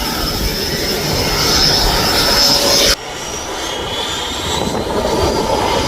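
Twin 80 mm electric ducted fans of an RC Freewing MiG-29 jet whining in flight, over low wind rumble on the microphone. The sound drops suddenly about three seconds in, then the fan whine goes on, rising in pitch.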